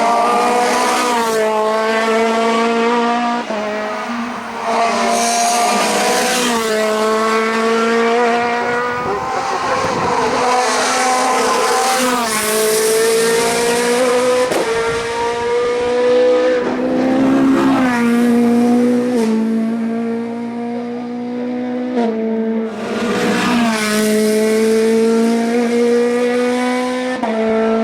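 A car engine driven hard, its revs climbing and then dropping back in steps every second or two as the gears are changed, with only brief lifts off the throttle.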